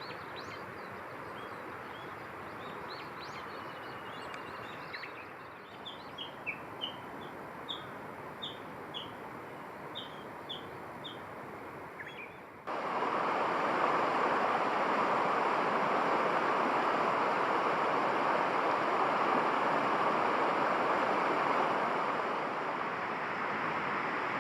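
A bird giving short high chirps over a steady rushing background, the chirps settling into a run of one note roughly every half second. About halfway through there is an abrupt cut to a louder, even rushing noise with no birdsong.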